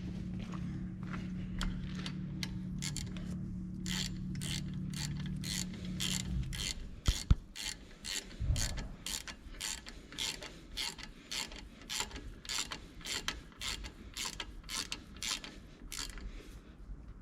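Hand ratchet wrench with a 13 mm socket clicking in repeated strokes, about two a second, as a bolt is run in and tightened. A steady low hum stops about six seconds in, and there are two sharp knocks soon after.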